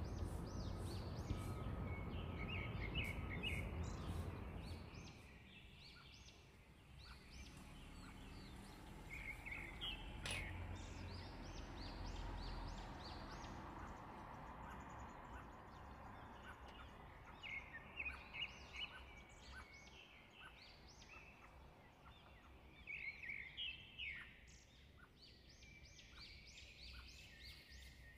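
Birds calling in faint clusters of short, high chirps every few seconds. A low rumbling background noise drops away about five seconds in.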